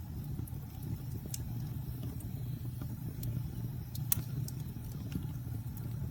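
Wood campfire burning: a steady low rumble of flames with scattered sharp crackles and pops from the burning wood, one louder pop about four seconds in.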